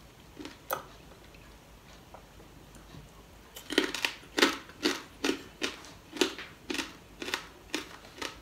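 Close-up crunching of someone chewing crispy chicharon (fried pork cracklings), about two sharp crunches a second starting a little before halfway, after a single click near the start.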